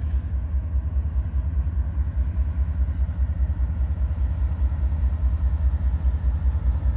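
Diesel freight locomotive running, a steady low rumble with a rapid pulse.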